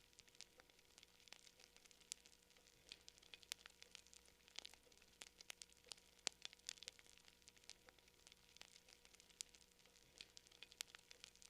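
Campfire crackling: irregular sharp pops and snaps of burning wood, several a second, some louder than the rest, over a faint hiss.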